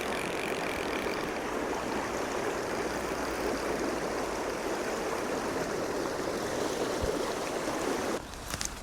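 Steady rush of running stream water, which drops away suddenly near the end.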